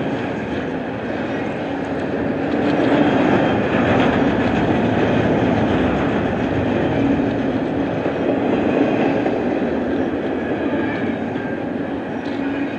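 Double-stack intermodal freight train's container well cars rolling past at close range: a steady rumble and clatter of steel wheels on the rails.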